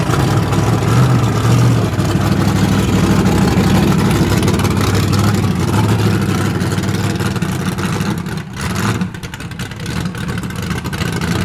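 A car engine running steadily at low revs close by, with a strong low tone; it drops back in level about eight and a half seconds in.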